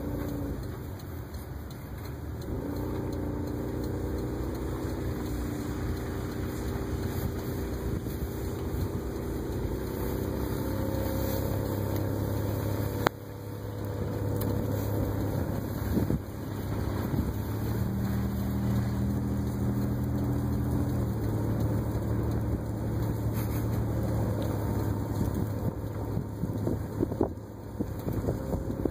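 Engine of a tow car running steadily at low speed, its pitch shifting up and down a few times, over tyre and road noise. A sharp click comes about 13 seconds in.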